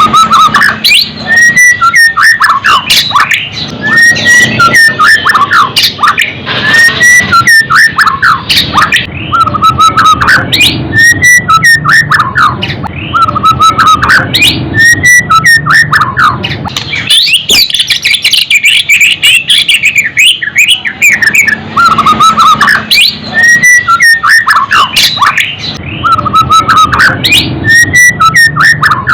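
White-rumped shama (murai batu) singing loudly in repeated whistled phrases every couple of seconds, each a sharp rising note followed by falling whistles and a short trill, with a pause of a few seconds about two-thirds of the way through.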